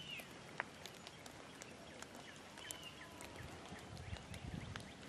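Faint outdoor ambience of small birds giving short, scattered chirps, with a few light clicks and a soft low rumble in the second half.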